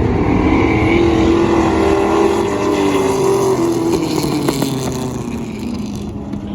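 V8 stock cars racing past at full throttle, their engine note rising and then falling away, fading over the last couple of seconds.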